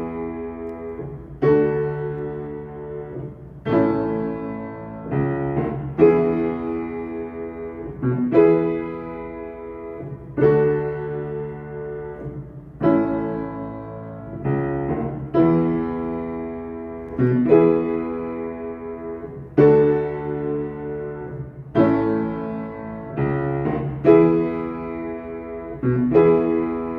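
Acoustic piano played in slow chords, a new chord struck about every two seconds and left to ring out. The piano still sounds in tune.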